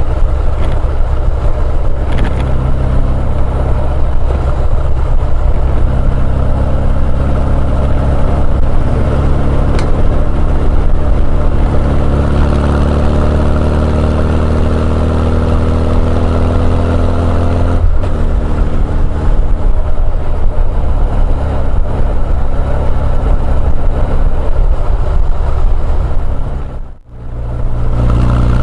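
Honda CB1100EX's air-cooled inline-four running through an R's Gear Wyvern Classic exhaust while riding. The engine pulls with a slowly rising pitch, breaks for a gear change partway through, then runs steady, and the sound drops out briefly near the end.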